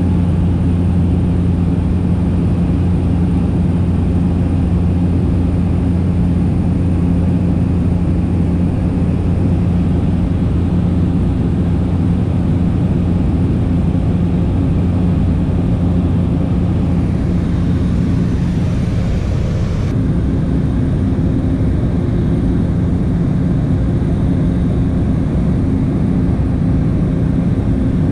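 Light aircraft's propeller engine droning steadily in cruise, heard from inside the cabin, with a steady low hum. A higher hiss swells and then cuts off sharply about twenty seconds in.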